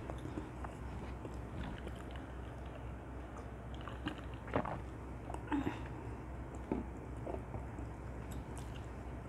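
Close-miked chewing and biting of dakgangjeong, Korean crispy fried chicken in a sticky sweet glaze, with a few louder crunchy bites around the middle.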